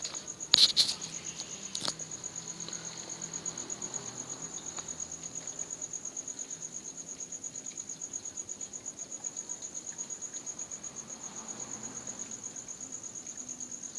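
Crickets chirping in a steady, fast-pulsing high-pitched trill. A loud sharp knock comes about half a second in, and a lighter one just before two seconds.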